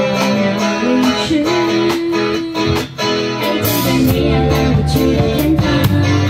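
Live pop ballad performance: strummed guitar under a gliding melody line, with a bass part coming in about halfway through.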